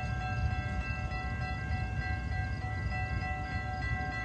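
Metra commuter train running through at speed without stopping: a steady low rumble, with several thin, steady ringing tones held over it.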